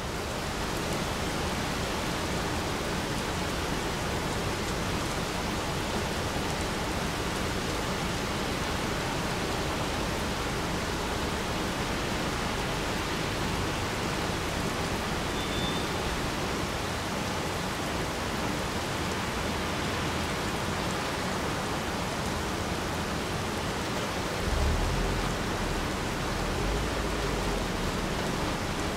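Steady rain pattering on a wet rock slope and its small puddles, an even hiss of drops on stone. A brief low rumble rises and fades near the end.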